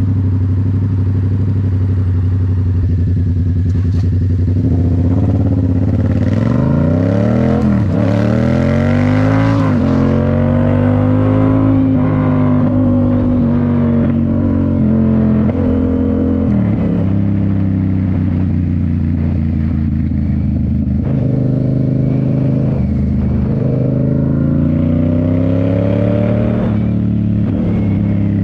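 A Yamaha MT-07's 689 cc parallel-twin engine running through a Toce full exhaust while riding. It holds steady at first, then rises in pitch through several gear changes about five seconds in, settles to a steadier cruise, and pulls up through the gears again near the end.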